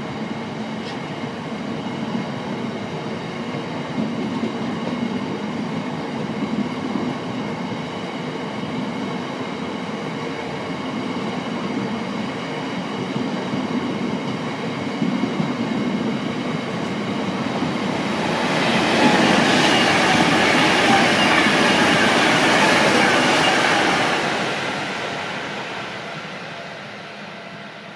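Freight train of open box wagons running past on the rails: a steady rumble of wagon wheels with faint ringing tones over it. About two-thirds of the way through it swells to a louder rushing noise, then fades as the end of the train moves away.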